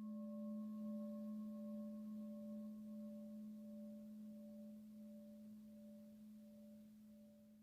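A singing bowl, struck once, ringing with a low hum and two higher overtones that slowly fade away over several seconds.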